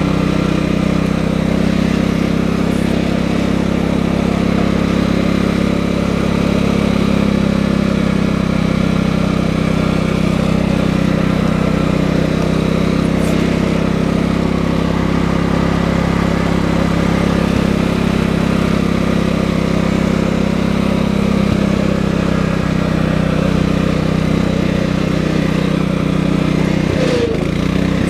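Tractor engine running at a steady speed, loud and unchanging.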